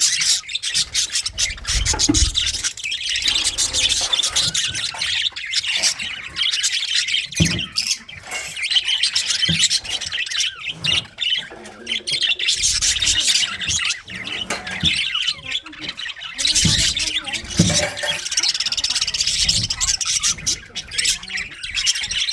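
A colony of budgerigars chattering, chirping and squawking continuously, with a few dull low thumps.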